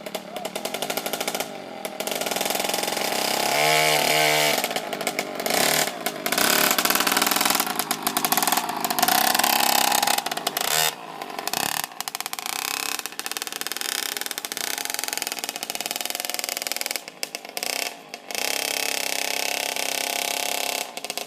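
Small dirt bike engine running and being revved, its pitch rising and falling unevenly, with several brief drops in level as the throttle is let off.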